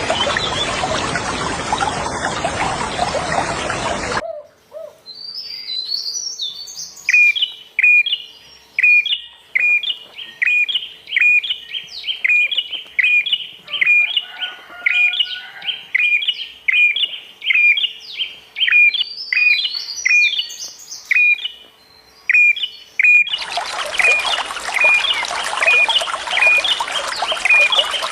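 Running water splashing steadily, cutting off abruptly about four seconds in. A songbird then repeats a short chirp about one and a half times a second, with a few higher notes among them. The water comes back near the end, with the chirping still going over it.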